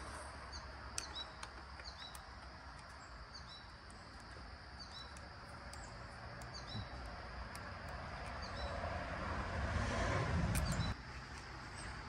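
A small bird chirping repeatedly, a short high chirp about every second, over faint outdoor background noise that swells near the end. A few faint clicks are mixed in.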